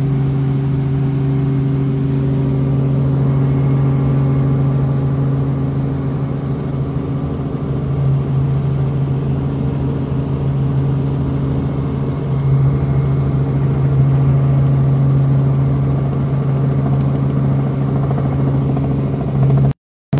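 Helicopter in flight heard from inside the cabin: a loud, steady engine-and-rotor drone with a strong low hum. The sound cuts out for a split second near the end.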